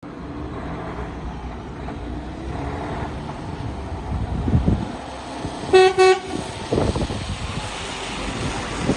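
Mercedes Actros 2545 tractor unit's diesel engine idling with a steady low rumble, and two short toots of a truck horn close together about six seconds in.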